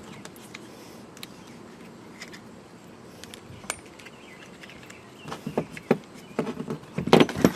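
Small metal parts of a light-mounting kit clinking and rattling as they are handled: a few scattered clicks at first, then from about five seconds in a busier run of clinks and rattles, loudest near the end.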